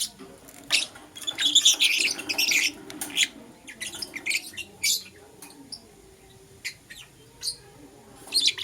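Lovebirds chirping: a rapid, dense run of sharp high-pitched chirps a second or so in, then scattered single chirps and another quick cluster near the end.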